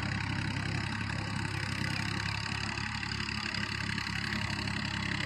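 Universal 533 tractor engine running steadily, an even low hum.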